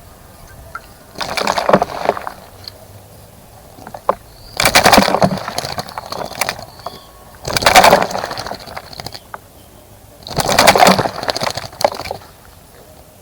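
A small bird splashing in a shallow bird bath, fluttering its wings in the water in four short bouts of a second or two each, with pauses between.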